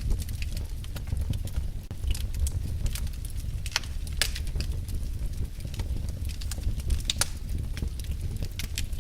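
Wood fire burning in a fireplace, crackling with irregular sharp pops and snaps over a low steady rumble of flame.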